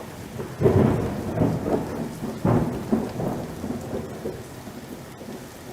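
Thunder rumbling over steady heavy rain, with two louder peaks about a second in and about two and a half seconds in, then dying away into the rain.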